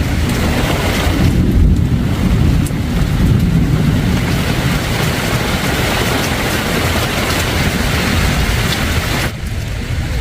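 Storm wind and heavy rain, with wind rumbling on the microphone; the hiss drops suddenly shortly before the end.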